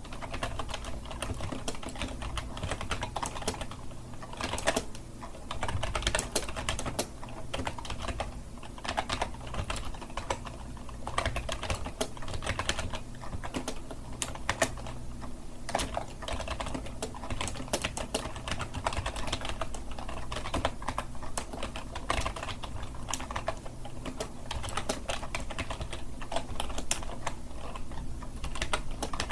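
Continuous fast typing on a computer keyboard, dense irregular key clicks with a low steady hum beneath.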